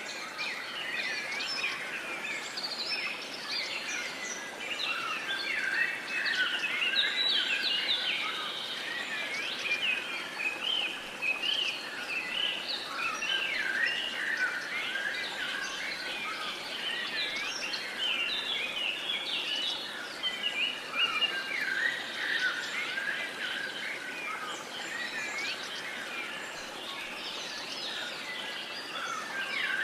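Many birds chirping and singing at once, a dense overlapping chorus of short high calls over a faint background hiss.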